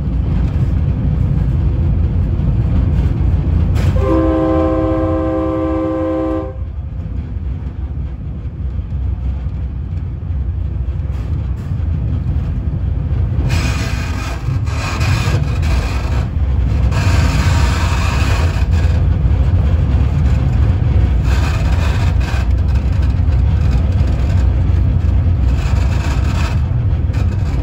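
Commuter train running with a steady low rumble, its horn sounding one long blast about four seconds in. From about halfway on, the wheels clatter in bouts as the train passes over track switches.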